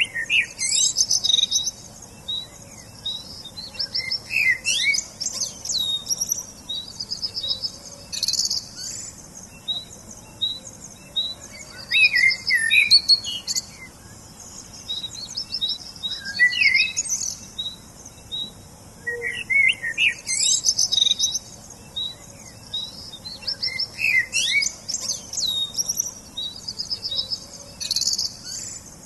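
Songbirds singing: bursts of high-pitched chirps and trills every few seconds, with a quick, even run of short high notes repeating in the pauses between them.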